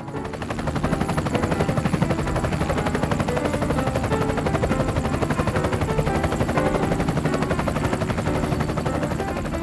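Helicopter rotor chopping in a steady, rapid beat that fades out near the end.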